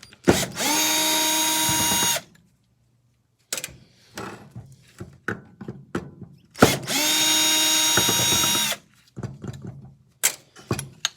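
Power drill running in two bursts of about two seconds each, each spinning up quickly to a steady pitch and then stopping, used to unscrew a miter saw motor for scrap. Small clicks and clatter of metal parts fall between the bursts.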